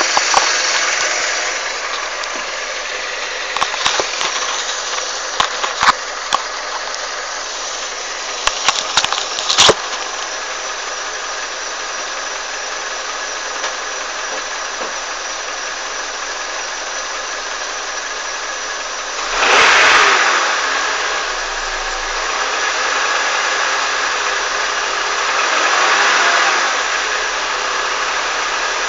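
Honda CR-V engine running, with the knock the owner is trying to record. It is revved briefly about twenty seconds in and rises again more gently a few seconds later. Sharp clicks come in a cluster between about four and ten seconds in.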